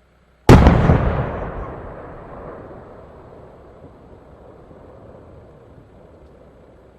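A single large aerial firework shell bursting with one loud boom about half a second in, its echoing rumble fading away over several seconds.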